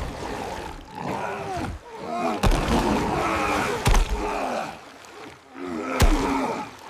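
A large animal roaring and growling, broken by three heavy thuds about a second and a half to two seconds apart.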